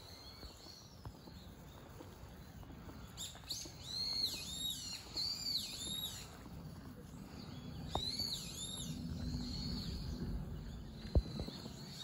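Wild bird calls: runs of short, arching chirps about three seconds in and again near eight seconds, over a low background rumble with a couple of sharp clicks.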